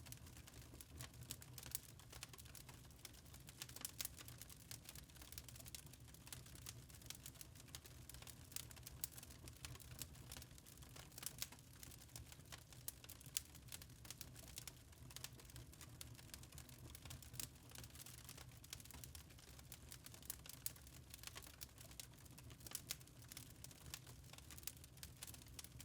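Wood fire in a fireplace crackling faintly, with irregular small snaps and a few louder pops, over a low steady hum.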